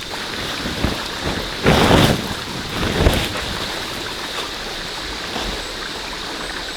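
Steady rain falling, an even hiss, with a louder rush of noise about two seconds in.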